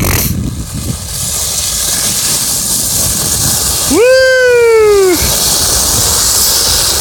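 Steady hissing scrape of a child sliding across ice-glazed ground. Near the middle a child gives one long call of about a second, its pitch sinking slowly.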